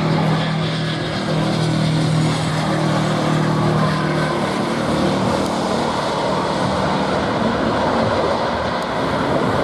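Jet airliner engines running loud and steady, with a lower hum that fades out about four seconds in.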